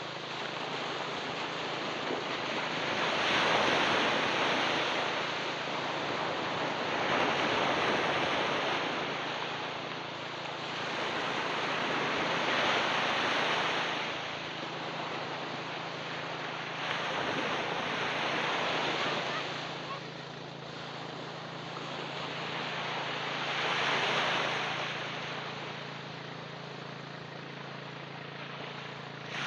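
Ocean waves breaking on a beach: a steady wash of surf that swells and fades with each wave, every four to six seconds.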